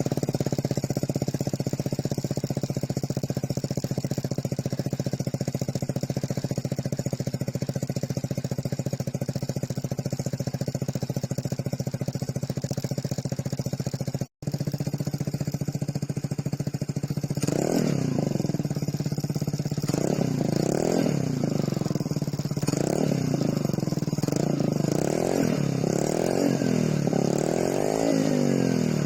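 Vespa Primavera 125's single-cylinder engine running through a Remus full exhaust, idling steadily just after a cold start. After a brief cut about halfway, the throttle is blipped again and again, the revs rising and falling roughly once a second.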